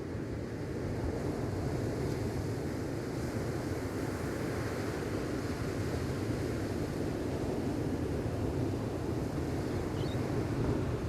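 Gentle ocean waves washing onto the shore, a steady wash of surf; a faint short chirp near the end.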